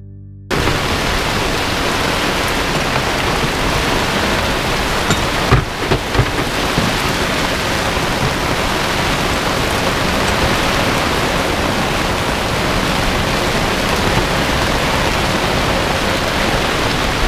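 Heavy squall rain and wind lashing a sailboat: a loud, even rush that starts abruptly about half a second in, with a few louder thumps about six seconds in.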